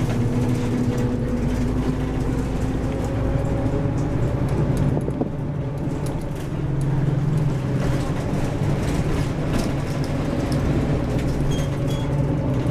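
Bus engine droning inside a moving bus, with road noise; the hum dips a little about five seconds in and comes back up soon after.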